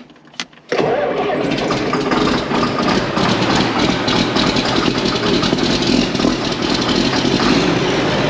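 Tractor engine running loudly and steadily, coming in suddenly just under a second in.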